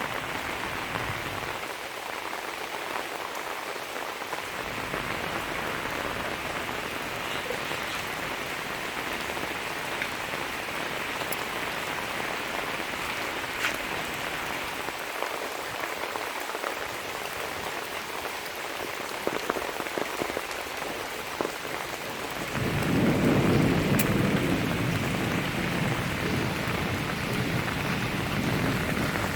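Heavy rain falling steadily. About three-quarters of the way through, a deeper low rumble comes in and stays, louder than the rain.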